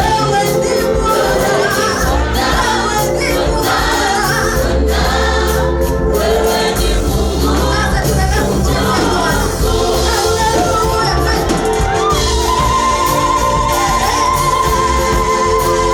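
Choir singing gospel praise music with instrumental backing, with a long held note from about twelve seconds in.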